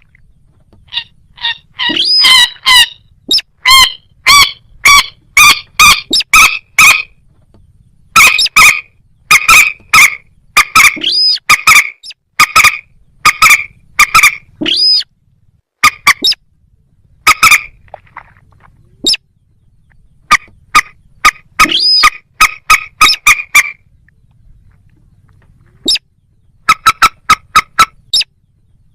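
Rail calls, a moorhen or little crake: loud, short, sharp call notes repeated about two or three a second, in runs of several seconds with brief pauses between runs.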